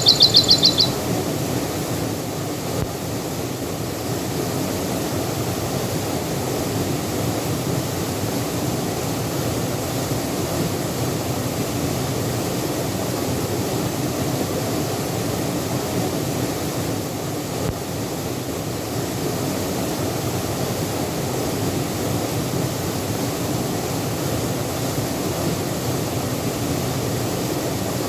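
Steady rush of a waterfall. In the first second a bird gives a short, rapid, high trill.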